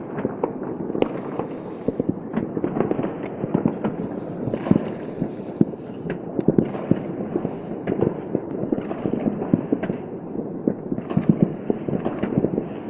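Many fireworks going off continuously across a city: dense, overlapping bangs and crackles at irregular intervals, some close and sharp, most merging into a steady rumble.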